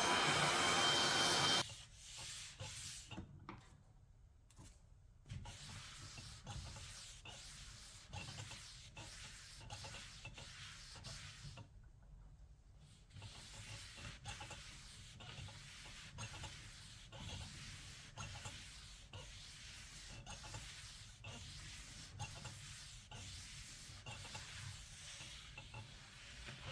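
Hand sanding and scraping off old paint and finish: rubbing strokes repeating evenly, about two a second. It opens with a loud, high, pitched screech that cuts off suddenly under two seconds in.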